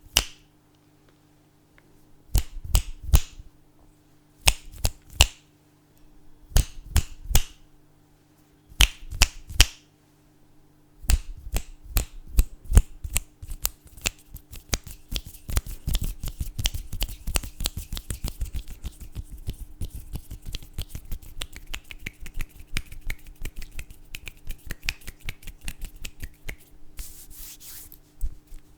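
Finger snaps close to the microphone, first in short clusters of three or four snaps every couple of seconds, then, from about eleven seconds in, a fast, unbroken run of snapping.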